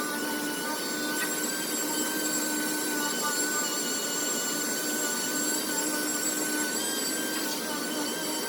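Double-action sander running steadily with a high whine, sanding primer-surfacer with 800-grit paper.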